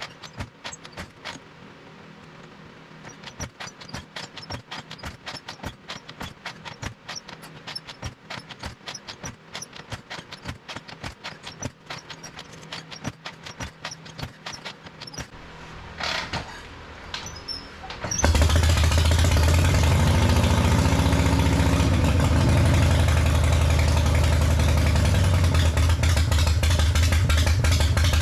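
Light rapid ticking, then about two-thirds of the way in the 1979 Harley-Davidson Shovelhead V-twin fires on its first startup after a motor swap. It rises briefly in pitch and settles into a loud steady run.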